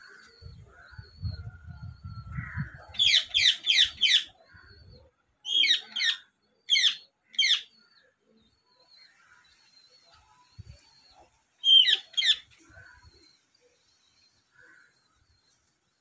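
Bird calling in quick runs of sharp, high, falling notes: four a few seconds in, four more around the middle, and two more later, with faint chirps between. A low rumble lies under the first few seconds.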